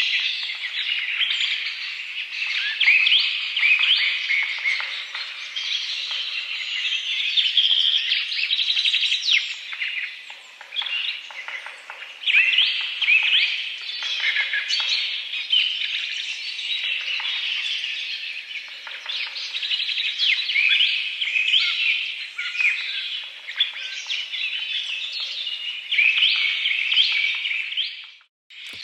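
Many small birds chirping and calling at once, a dense chorus of short, high, overlapping notes, broken by a brief dropout to silence just before the end.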